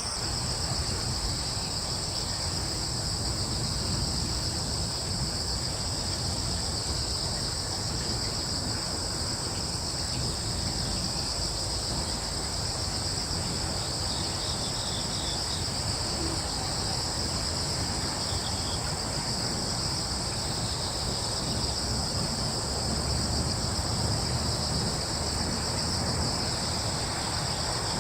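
A chorus of crickets chirring continuously at a high, even pitch, over a low steady rumble.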